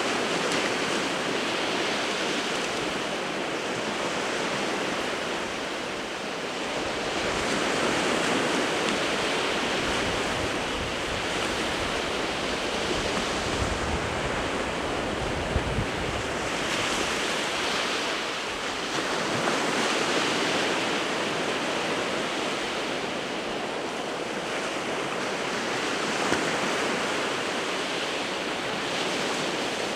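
Surf of the winter Sea of Japan breaking continuously, swelling and easing every few seconds, with a low rumble of wind on the microphone around the middle.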